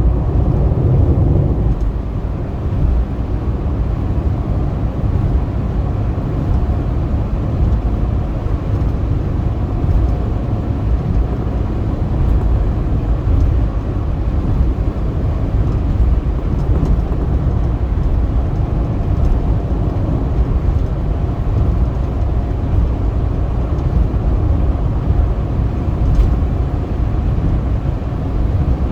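Steady rumble of a car driving along a highway: engine and tyre noise, mostly deep, with a faint steady hum above it.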